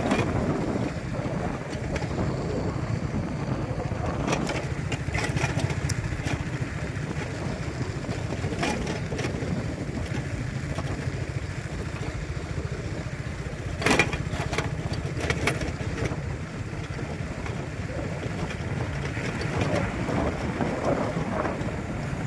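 Steady low rumble of a moving vehicle, with a few sharp knocks, the loudest about fourteen seconds in.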